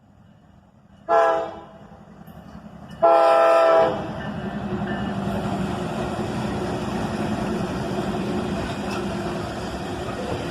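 Freight locomotive horn, an EMD SD70MAC's, sounding a short blast and then a longer one, followed by the train rumbling past with its diesel engine running and wheels on the rails.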